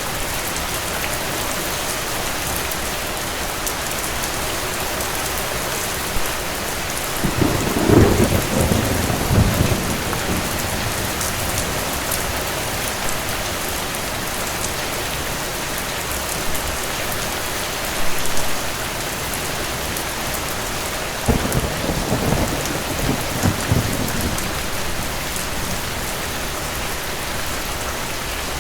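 Steady rain with two rolls of thunder. The first swells up about seven seconds in, the second about twenty-one seconds in, and each lasts two to three seconds.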